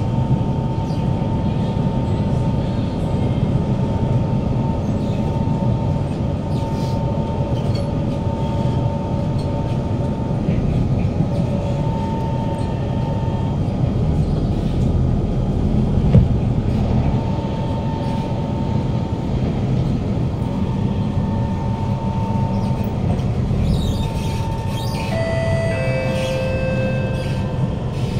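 Kawasaki Heavy Industries C151 train with GTO-VVVF traction equipment heard from inside the car while under way: a steady wheel-and-track rumble with a high motor tone that comes and goes. A single knock sounds about halfway through, and a short run of stepped tones sounds near the end.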